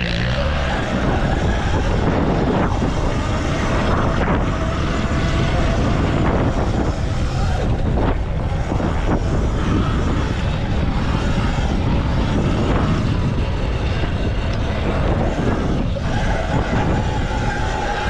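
Electric motocross bike (Stage 2 M1) ridden hard on a dirt track: steady loud rush of wind, chain and knobby-tyre noise, with the electric motor's whine rising and falling in pitch with the throttle.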